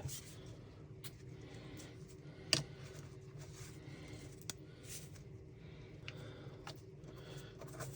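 Faint handling of small 3D-printed plastic parts: a few light clicks and taps, one sharper click about two and a half seconds in, over a low steady hum.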